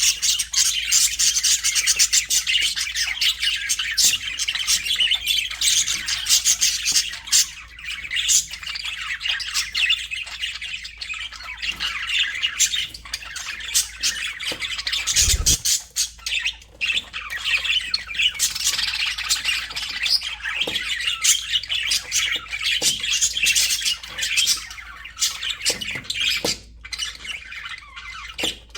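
A flock of budgerigars chattering, chirping and squawking continuously, many birds calling over one another, with a brief low thump about halfway through.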